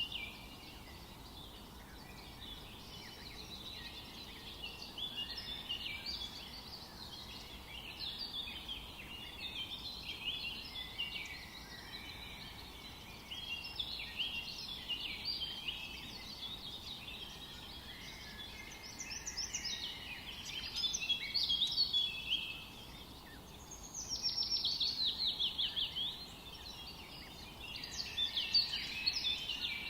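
Several songbirds singing in a forest, overlapping chirps and warbling phrases over a faint steady hiss. About 24 seconds in, one bird gives a louder run of quick notes, each sliding downward in pitch.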